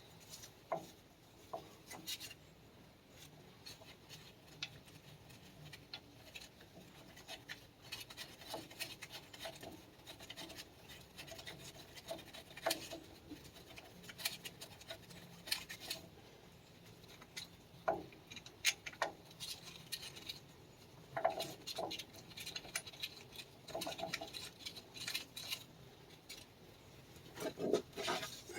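Hand tools and steel parts clinking and scraping irregularly, with scattered sharp metallic clicks, as a bolt and the tie rod end bracket are fitted on a tractor's front axle.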